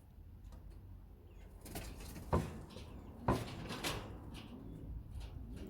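Two sharp knocks about a second apart, with scuffling and rustling around them.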